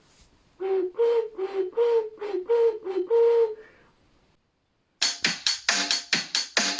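Home-made clay ocarina playing a run of short, separately blown notes that move back and forth between two low pitches. After a brief silence, a louder, quicker passage of notes with sharp attacks starts near the end.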